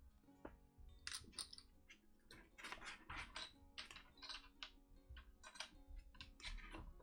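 Small plastic Ticket to Ride train pieces clicking as they are handled and set down on the board, a quick irregular run of light clicks starting about a second in, over faint background music.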